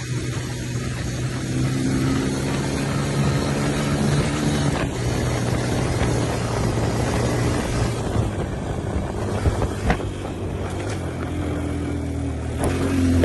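Dirt bike engine running steadily. Its pitch drops a step about five seconds in, drops again later, and rises near the end.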